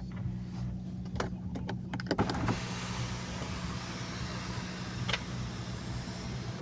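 Car cabin sound while driving: a steady low engine and road hum, a few sharp clicks about a second or two in, then a broad rush of wind and road noise that comes in about two seconds in and stays.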